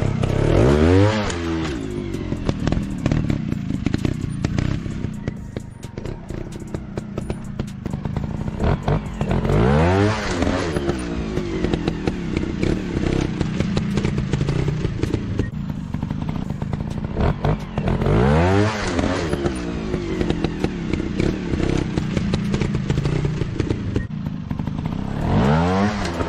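Dirt-bike engine revving up sharply and dropping back, four times about eight seconds apart, over a steady running rumble, with clattering and knocking in between.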